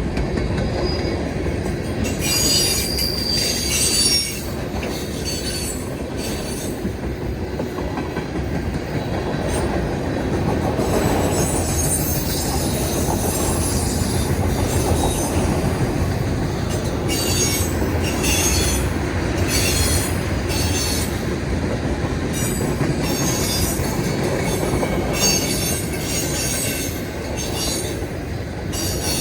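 CSX manifest freight train rolling past with a steady rumble of wheels on rail. High metallic wheel squeal comes and goes in several stretches.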